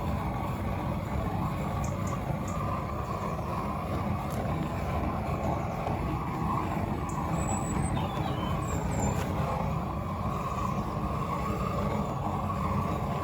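Flame thrower burning with a steady, unbroken roar as its flame is played over a faded plastic bumper to restore it.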